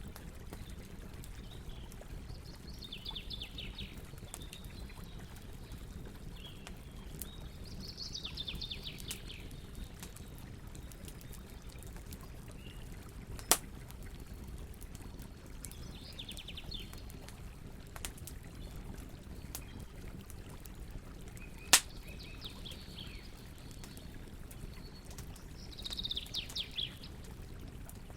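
Campfire burning with a steady low rumble and small crackles, and two loud sharp pops from the fire. Over it, a bird's short, fast trilled call comes back every few seconds.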